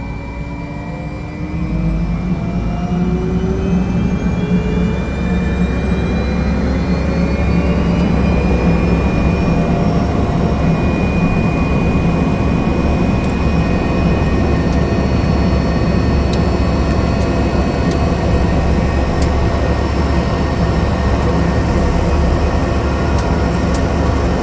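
Survey aircraft engine starting up: a whine rises steadily in pitch for about ten seconds, with the sound growing louder about a second and a half in, then settles into a steady run.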